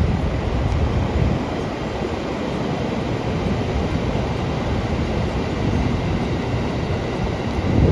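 A train running by: a steady rumble and rush of wheel and motor noise, with a short louder thump at the very end.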